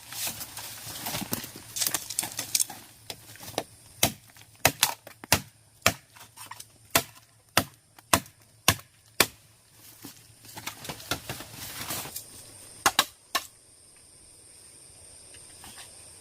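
Repeated sharp strikes of a hand tool, hitting irregularly about one or two times a second, with scraping and rustling between the blows. The strikes stop about three seconds before the end, leaving a faint steady high hum.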